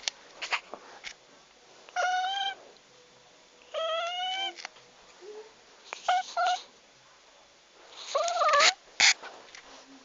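Cat meowing: a string of drawn-out meows about every two seconds, two short ones together near the middle and a wavering one near the end, with a few faint clicks between the calls.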